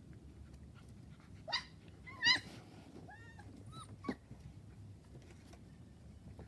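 Puppies yipping and whimpering in play: a handful of short, high yelps and whines between about a second and a half and four seconds in, the loudest a little after two seconds.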